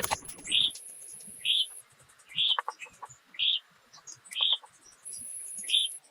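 Forest wildlife: a short, high call repeats about once a second, with two brief bursts of a very high, steady, insect-like buzz. A louder rustling noise cuts off less than a second in.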